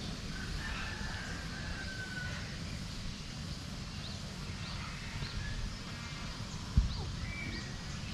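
Birds calling in an aviary park: a drawn-out whistle early on, then short chirps, over a low steady rumble, with a single thump about seven seconds in.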